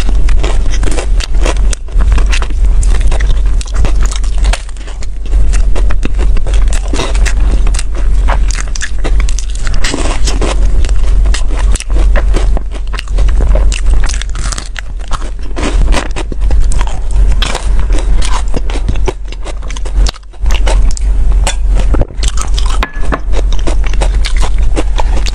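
Close-miked biting and chewing of a taro-filled taiyaki, a fish-shaped waffle pastry: a dense run of moist mouth clicks and soft crackles from the crust, over a steady low hum.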